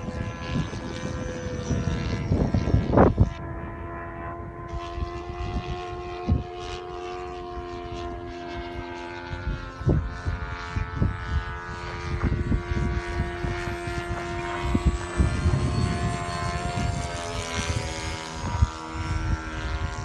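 Electric ducted-fan jet (Freewing Stinger 64 mm with a 12-blade fan and inrunner motor) flying overhead: a steady high whine that shifts in pitch and rises near the end. Gusty wind buffets the microphone throughout.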